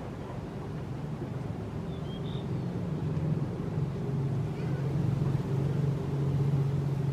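A low engine hum from a passing motor vehicle grows steadily louder over a background of wind noise. A short high chirp is heard about two seconds in.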